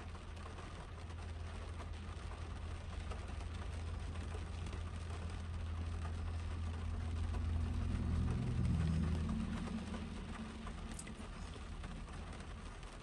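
Rain pattering on a car's roof and windshield, heard from inside the car, over a low steady hum. A passing vehicle swells to loudest about eight to nine seconds in, then fades.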